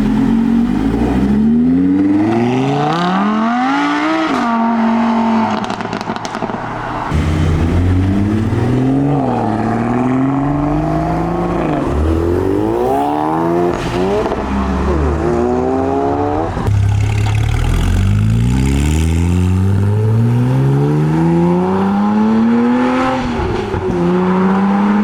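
Sports-car engines accelerating hard, the pitch climbing through the revs several times with short drops between climbs as gears change. The engine sound changes abruptly about seven and about sixteen seconds in, as a different car takes over.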